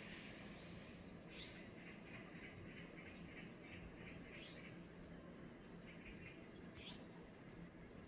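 Faint birdsong: several birds chirping, with short high calls and quick trills every second or so, over a steady faint background noise.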